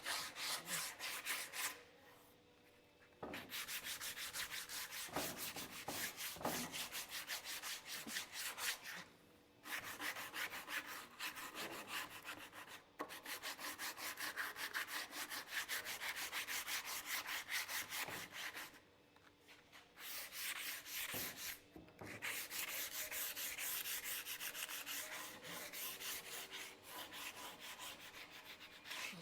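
Sandpaper rubbed by hand over wood in quick back-and-forth strokes, smoothing the piece along the grain. The stroking stops briefly a few times.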